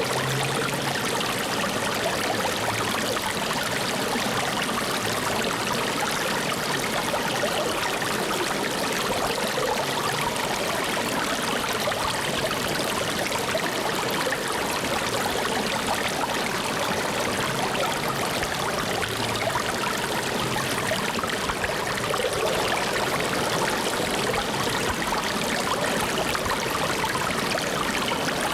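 Steady flowing water of a stream or brook, an even rushing with no change in level.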